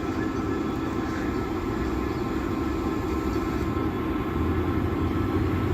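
Class 66 diesel-electric locomotive, with its two-stroke V12 diesel running, hauling an intermodal freight train. It is a steady rumble with a few steady higher tones above it, and the low rumble grows louder about four seconds in.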